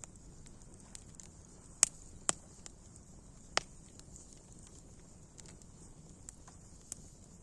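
Campfire burning with sharp, irregular pops and crackles of the wood, three louder pops in the first half, over a faint steady hiss.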